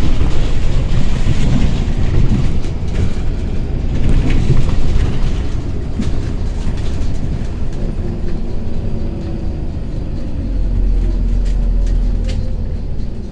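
Scania OmniCity CN94UB city bus driving, heard from on board: the engine drones under a constant clatter of rattles and clicks from the bus body and fittings. About eight seconds in, the engine note starts to fall slowly as the bus slows down.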